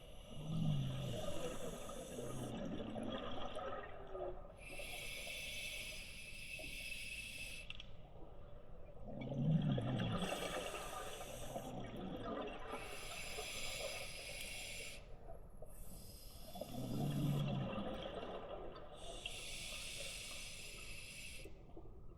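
A diver breathing through a scuba regulator underwater: slow, regular breaths, each a hiss of air drawn through the regulator followed by a gurgling rush of exhaled bubbles.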